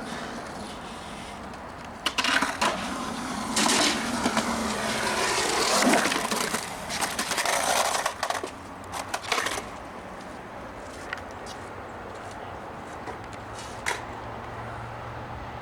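Skateboard wheels rolling with the deck clacking and slapping down in a run of sharp knocks between about two and ten seconds in, then a few single clicks.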